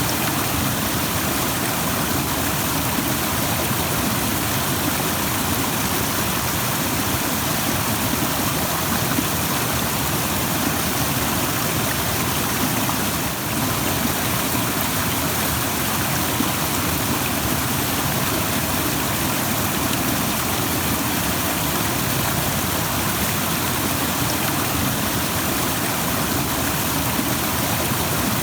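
Rushing stream: water pouring and churning in a steady, full rush with no break.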